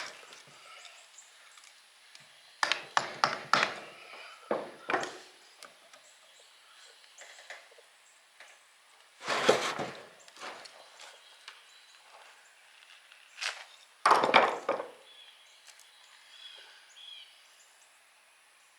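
Clusters of sharp knocks and short scraping bursts from working the copper windings out of an old electric motor's stator stack: a quick run of strikes about three seconds in, and longer, noisier bursts around the middle and again about two-thirds through.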